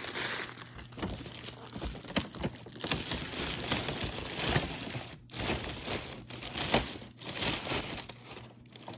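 Crinkling and rustling of packaging and wrapping being handled while a small gift basket is packed and wrapped, in uneven bursts that die down near the end.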